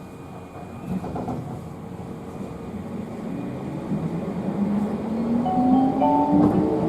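Toyama Chiho Railway electric train accelerating: the traction motors whine, rising steadily in pitch over rumbling running noise that grows louder, with a few knocks from the wheels on the rail joints.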